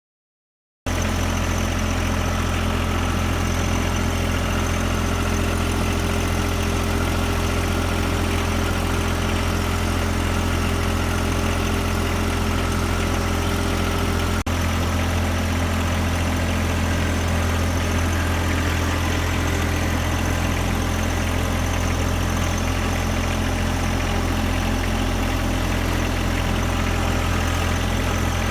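John Deere 1025R compact tractor's three-cylinder diesel engine idling steadily, starting about a second in, with a very brief break about halfway through.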